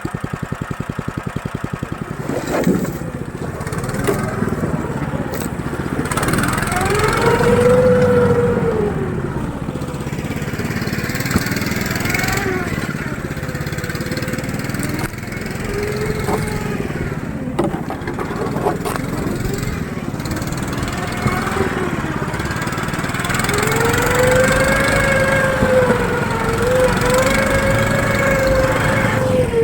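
Motor-towing device (snow dog) engine running while riding through the snow, its revs rising and falling several times as the throttle is opened and eased over bumps, with a few sharp knocks along the way.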